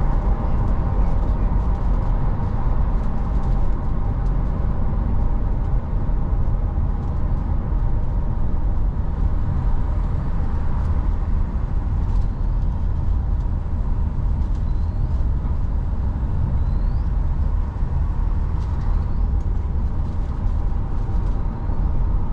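Car driving on city roads: a steady low rumble of engine and tyre noise, with a few faint short high squeaks partway through.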